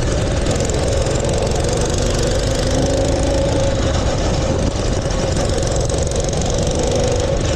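Mini bike's small engine running at a steady speed, its note holding even throughout.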